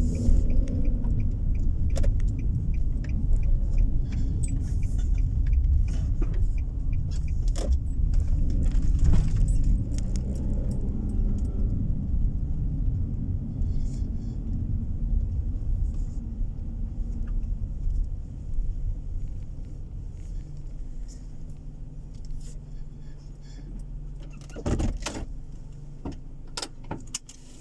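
Car cabin noise: a steady low road and engine rumble with small jangling rattles and clicks. The rumble eases off and grows quieter in the second half as the car slows, and there is a sharp rattle near the end.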